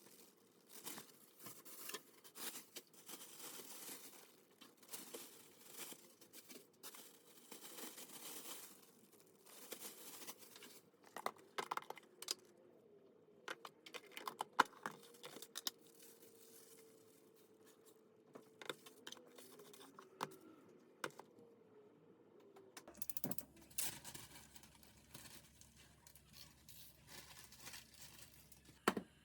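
Rustling and crinkling, as of plastic or paper being handled, with scattered light clicks and knocks.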